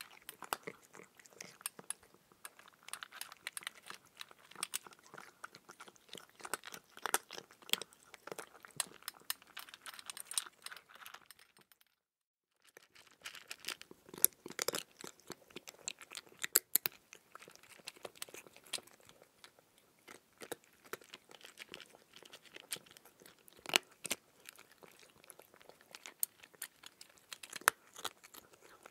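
Raw cucumber being bitten and chewed: a dense run of crisp crunches and clicks. The sound cuts out to dead silence for under a second about twelve seconds in.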